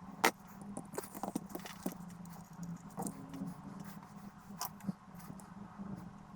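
Irregular sharp clicks and light taps, about a dozen, from small tools and parts being handled on a workbench, over a low steady hum.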